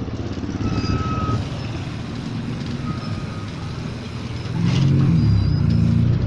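Motorcycle tricycle's engine running just ahead, getting louder and nearer from about four and a half seconds in. Two short, faint high beeps sound in the first half.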